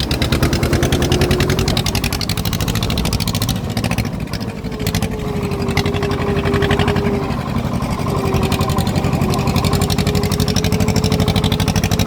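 Swaraj tractor's diesel engine running under way with a fast, even chugging, and a steady whine above it that wavers slightly in pitch.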